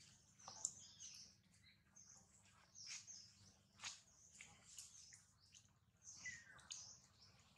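Faint, scattered high chirps of birds, with a few short sharp clicks, the strongest about half a second in and near four seconds in.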